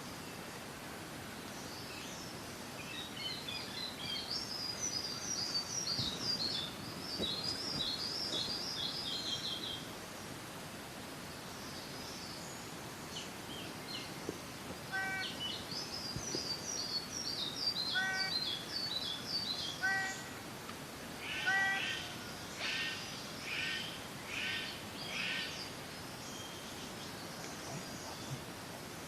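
Bird-of-paradise calls over a steady hiss: a fast run of high, twittering notes, then after a pause some short spaced calls, and near the end five louder calls about a second apart.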